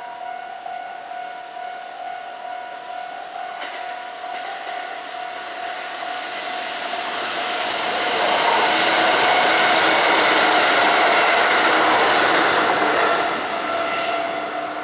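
Kintetsu electric commuter train approaching and passing on the track. Its rumble builds from about six seconds in, is loudest for some five seconds, then fades. A steady tone sounds under it throughout, with a sharp click near the start and another near the end.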